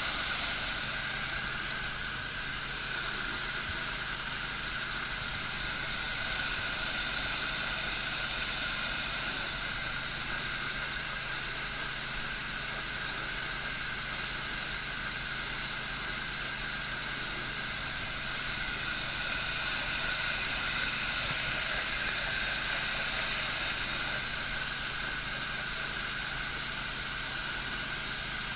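Water hissing steadily as it escapes under pressure from the water line, over a steady low hum.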